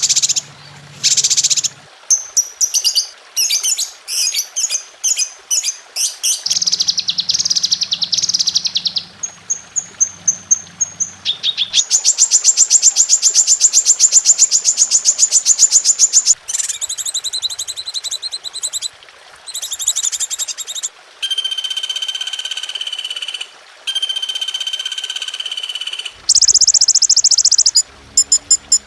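Recorded songbird calls and songs cut one after another: quick chirp series, then a long fast trill of rapidly repeated notes, then a few long held notes, each section starting and stopping abruptly, as in a spliced bird-song tutoring (masteran) track.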